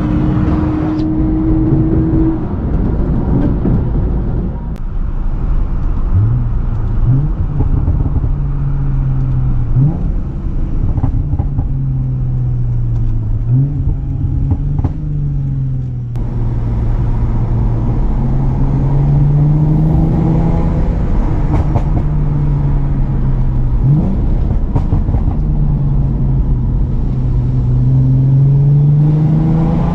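Lexus IS350's 3.5-litre 2GR-FSE V6 through an aftermarket midpipe and axle-back exhaust, running at moderate revs, its pitch climbing and falling again and again as the car is driven. A few short sharp pops come through, typical of the tune's crackles when the throttle is let off.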